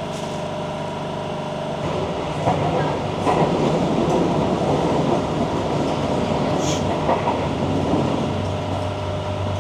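Inside a moving passenger train: wheel and rail rumble over a steady hum from the carriage's air conditioning. The rumble grows about two seconds in as the train gathers speed after pulling away.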